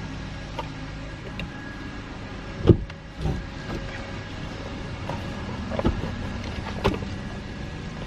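Scattered clicks and knocks of plastic car-interior accessories being handled and pushed into place, the loudest about two and a half seconds in, over a steady low hum.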